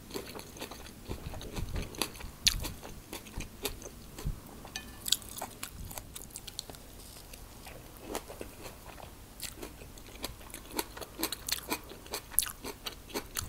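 A person chewing a mouthful of quinoa salad with corn and tomato, with many small, irregular mouth clicks.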